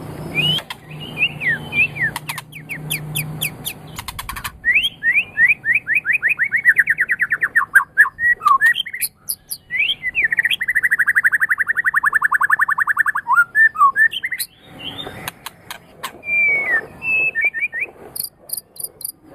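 White-rumped shama (murai batu) singing a varied song of whistled phrases, with two long, rapid trills of repeated notes, one starting about five seconds in and one about ten seconds in, and sharp clicks and very high chips between them.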